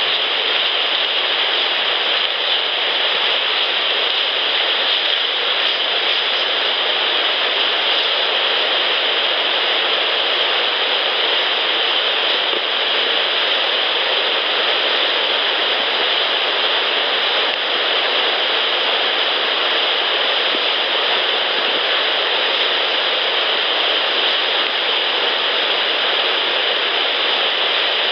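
A constant, even hiss, brightest in the upper range, with no separate events standing out.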